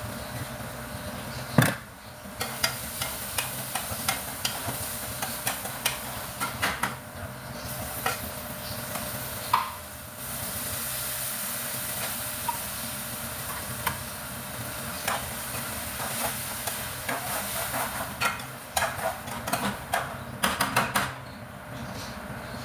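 Food sizzling in a frying pan while a utensil stirs and repeatedly clinks and scrapes against the pan, with one loud knock about a second and a half in.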